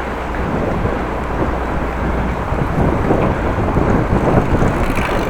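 Wind buffeting the open microphone of a bicycle-mounted camera while riding, a dense steady noise that is heaviest in the low end.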